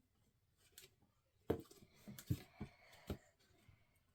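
Handling of a plastic toy fridge and its packaging: a few light clicks and knocks, most of them close together in the middle.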